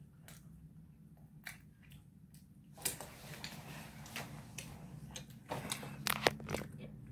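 Chewing, with small mouth clicks, then from about three seconds in, rustling and a few knocks as someone shifts and handles things at the table.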